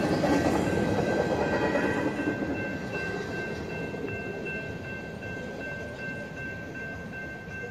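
Tail end of a Union Pacific intermodal freight train rolling past, its rumble fading from about two and a half seconds in as the last well car clears the crossing. A steady high ringing from the grade-crossing signal bell continues throughout.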